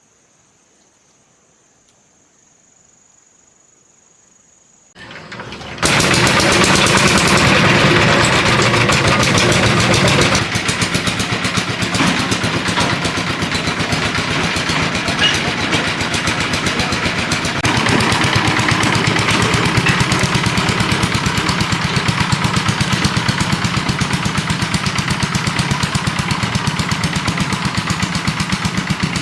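A small engine starts about five seconds in and then runs steadily with a fast, even chugging.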